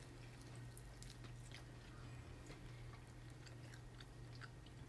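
A child faintly chewing a bite of turkey, with soft scattered clicks of the mouth, over a steady low hum.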